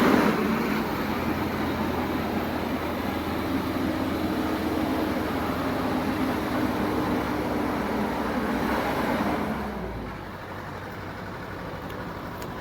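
Steady motor vehicle noise with a low hum, dropping away about ten seconds in.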